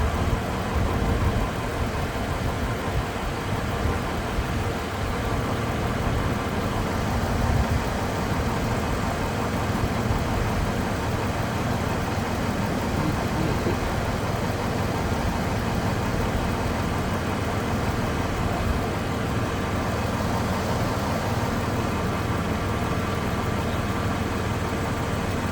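2008 Saturn Vue's engine idling steadily with the air-conditioning compressor running, as refrigerant pressures are checked on gauges.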